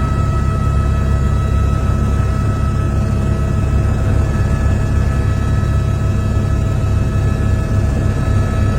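Helicopter running steadily: a loud, even low rumble with a steady whine of several high tones over it.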